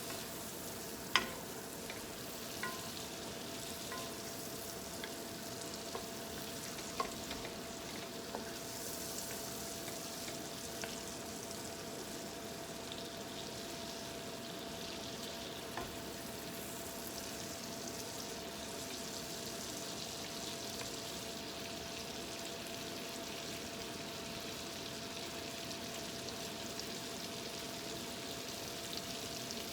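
Food sizzling steadily in a frying pan, with a few sharp clicks in the first half, the loudest about a second in, and a steady faint hum underneath.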